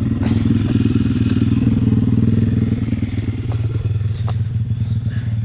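Pit bike engine running steadily, easing off slightly about halfway through, with a couple of light knocks.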